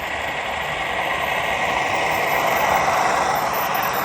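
Model train running past on a layout, its rumble swelling to a peak a few seconds in and easing off again over a steady high hum.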